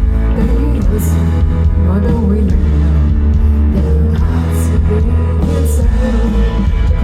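A rock band playing live at full volume, with a heavy, booming bass line under guitar.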